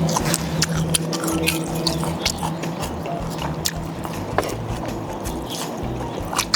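Background music with held low notes, under eating sounds: chewing and many short, sharp clicks.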